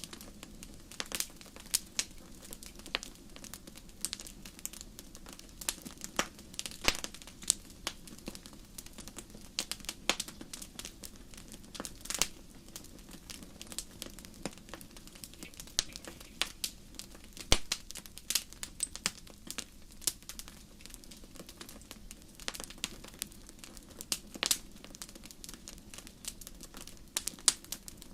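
Wood fire burning in a fireplace, crackling and popping in irregular sharp snaps over a soft steady hiss of flame.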